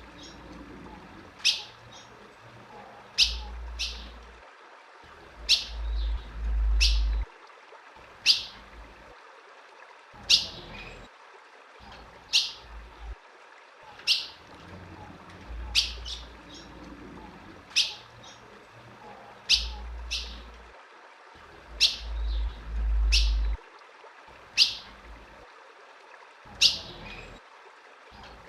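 Female ultramarine grosbeak (azulão) calling: single short, sharp downward chirps repeated about every one and a half to two seconds, with low rumbling coming and going underneath.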